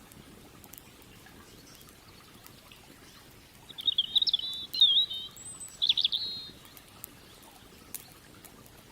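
A songbird singing a short warbling phrase of chirps, starting a little under four seconds in and lasting about three seconds. Faint, sharp, scattered crackles of a wood campfire run throughout.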